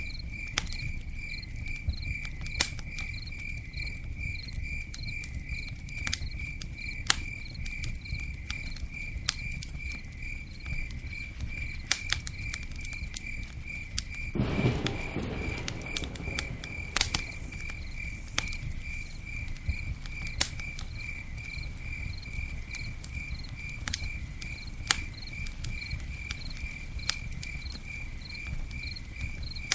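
Campfire burning with scattered sharp crackles and pops over a low, steady rush, and a brief louder surge about halfway through. A cricket chirps evenly, about twice a second, all the while.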